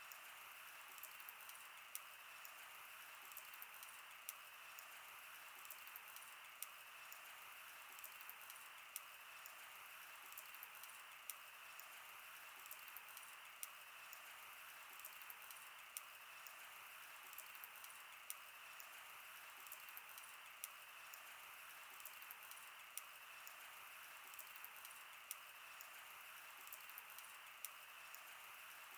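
Wood fire crackling: a soft, steady hiss with sharp pops and snaps at irregular intervals, several every few seconds.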